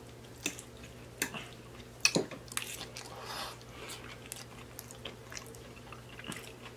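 A person chewing a mouthful of food, with wet mouth smacks and a string of short, sharp clicks.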